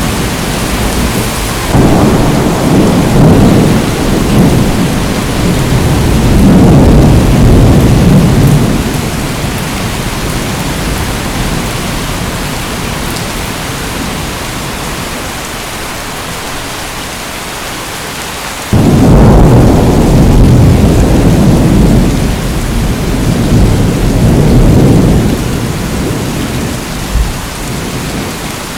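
Steady heavy rain hissing, with two long rolls of thunder over it: the first swells about two seconds in and rumbles for several seconds, the second breaks in suddenly past the middle and rumbles for about six seconds before fading back to the rain.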